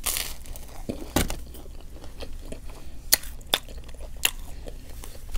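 A person chewing food close to the microphone: scattered wet mouth clicks and snaps with a few crunchy bites, and a short breathy hiss at the start.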